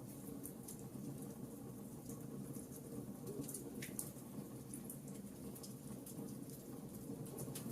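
Wood fire burning in a fireplace: a steady low rumble of flames with scattered sharp crackles and small pops, one louder pop about four seconds in.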